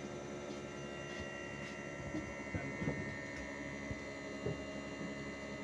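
Hitachi 1-ton split air conditioner outdoor unit running with a steady hum, with a few light knocks in the middle.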